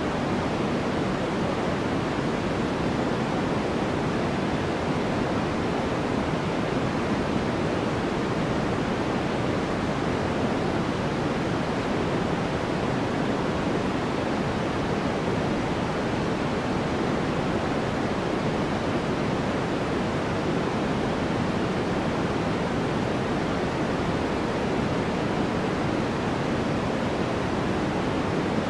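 Steady white noise: a constant, even hiss weighted toward the low and middle range, unchanging throughout.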